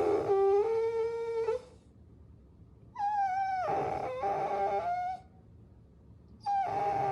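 Puppy whining in long, high, drawn-out cries, three in a row with short pauses between, each sliding down a little at the end.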